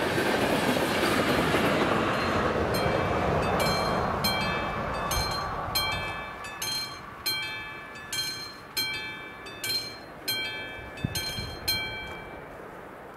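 Passenger coaches rolling past over the rails, their rumble fading over the first few seconds as the train clears. Over it, the level crossing's warning bell strikes about twice a second, then falls silent near the end as the crossing signals clear.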